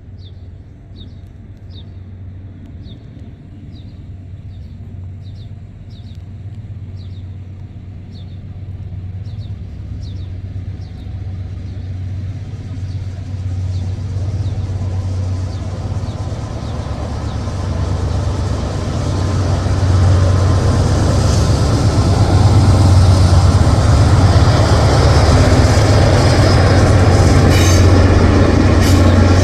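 Norfolk Southern freight train led by two GE AC44C6M diesel locomotives approaching, the deep engine hum and rail noise growing steadily louder as it nears. A bird chirps repeatedly over the quieter first part.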